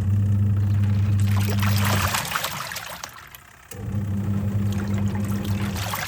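Twin-tub washing machine's wash motor humming as the pulsator churns the water with splashing. It stops about two seconds in, leaving a pause of about a second and a half, then starts again: the on-off rhythm of the wash cycle's back-and-forth agitation.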